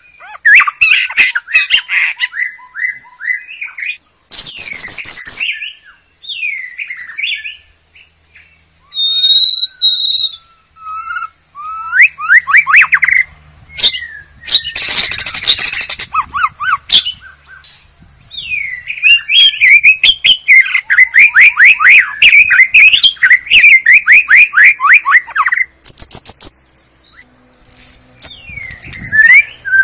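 White-rumped shama singing a varied song of loud whistles, fast runs of repeated notes and harsh notes, the phrases separated by short pauses.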